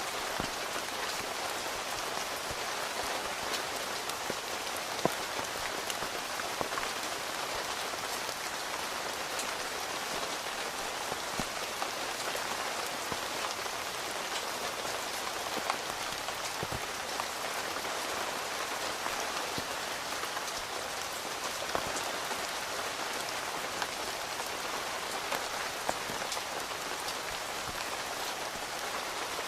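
Steady rain heard from inside a tent: a continuous hiss of rainfall with scattered single drops ticking on the tent, a few louder than the rest.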